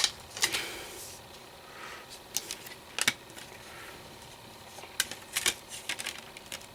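A CD case being handled and opened: a scatter of sharp plastic clicks and snaps with light rustling between them.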